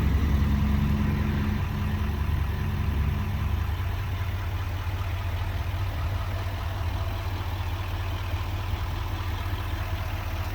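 6.6-litre Duramax V8 turbo diesel idling with a steady low rumble; a low hum in it fades out about three and a half seconds in.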